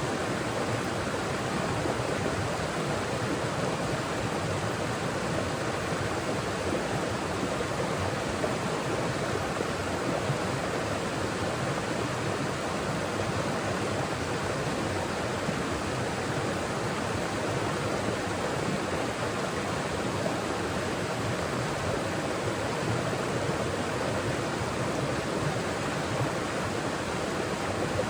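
Mountain forest stream flowing over rocks: a steady, even rush of water.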